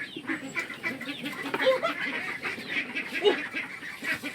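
Chickens clucking, a run of short calls one after another.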